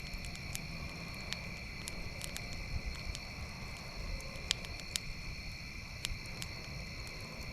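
Campfire crackling, with sharp pops at irregular moments, over a steady high chirping of insects such as crickets.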